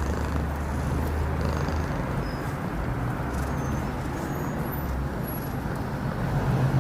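Domestic cat purring steadily and loudly close to the microphone.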